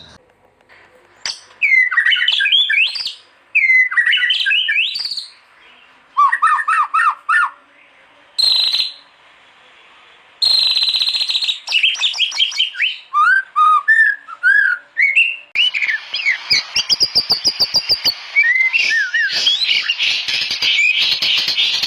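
White-rumped shama singing: loud, separate phrases of sliding whistled notes with short pauses between them, then about two-thirds of the way in a dense, unbroken run of rapid notes and trills.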